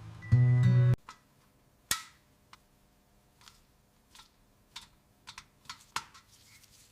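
A loud held note ends abruptly about a second in, then scattered sharp clicks and taps follow, about ten of them at uneven intervals.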